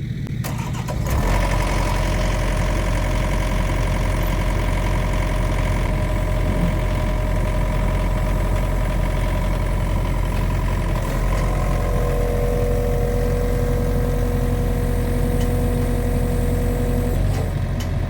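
John Deere 50P compact excavator's diesel engine running, stepping up in loudness about a second in and then holding steady. A steady whine joins about two thirds of the way through and stops shortly before the end.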